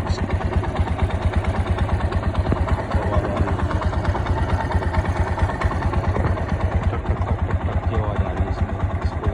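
TVS Apache 180's single-cylinder engine idling steadily, with the timing-chain noise of a badly loose chain whose tensioner has run out of adjustment.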